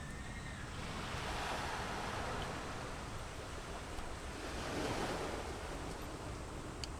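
Sea surf washing onto the shore, swelling twice and falling back, with a low rumble of wind on the microphone.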